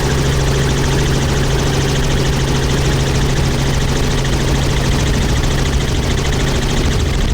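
Helicopter in flight, heard from aboard: a steady, loud engine and rotor drone with a strong constant low hum and a fast, even chop in the upper noise.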